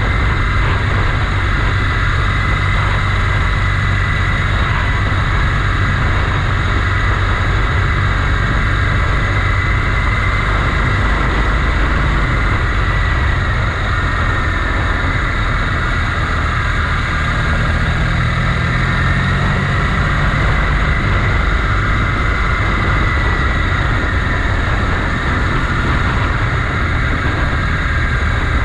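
Motorcycle engine running steadily while riding, its pitch rising a little past the middle.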